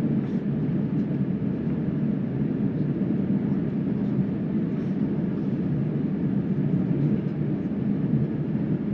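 Steady low rumble of a jet airliner's engines heard inside the passenger cabin before takeoff, running evenly without spooling up.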